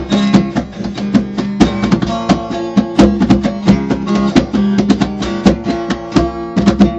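Music: acoustic guitar strummed and plucked in quick strokes.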